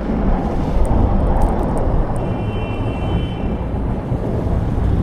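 A car driving through snow: a steady low rumble of engine and tyre noise, with a faint thin high tone for about a second in the middle.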